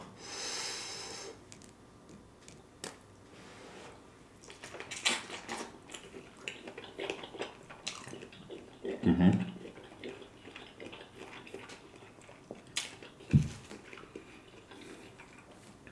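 A man chewing a mouthful of lobster tail meat, close to the microphone: soft wet mouth sounds with scattered smacks and clicks, and a few short low sounds around the middle.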